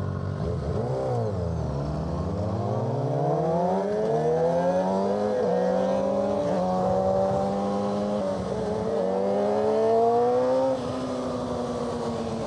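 Suzuki GSX-R600's inline-four through an M4 exhaust: a quick blip of the throttle, then the engine note rising as the bike accelerates, dipping briefly at each upshift. The throttle closes near the end and the note drops back.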